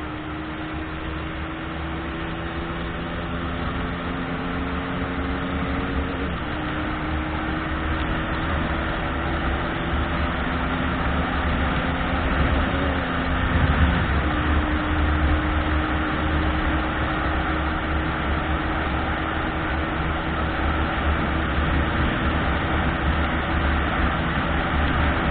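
Car engine accelerating through the gears, its hum climbing in pitch and dropping back at two gear changes, about six seconds in and again near fourteen seconds, over a steady hiss of tyres on the road. The sound grows slowly louder.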